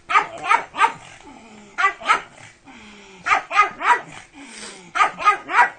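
A pug barking in quick runs of two or three sharp barks, about eleven in all, with short pauses between the runs.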